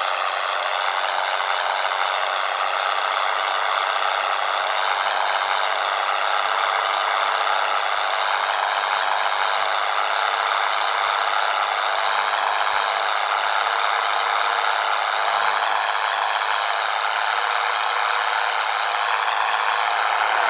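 Scania 113 truck's diesel engine running steadily under way, its pitch wavering only slightly.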